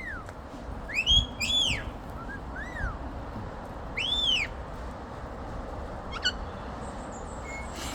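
Pet parrots giving short arched whistle calls, each rising and falling in pitch, about five times, over a faint steady low background rumble.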